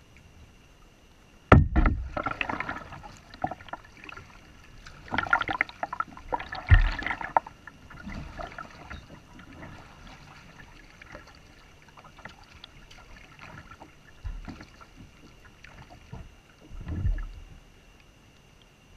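Kayak paddling and handling sounds: a sharp knock about a second and a half in, then bursts of water and hull noise, smaller scattered knocks, and another burst near the end. A faint, steady high-pitched hum runs underneath.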